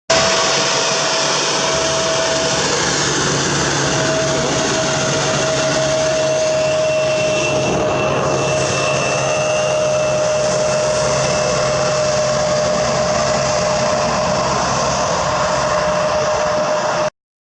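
Jet airliner engines running loud and steady, a whine just under the roar that sinks slightly in pitch. The sound starts abruptly and cuts off suddenly near the end.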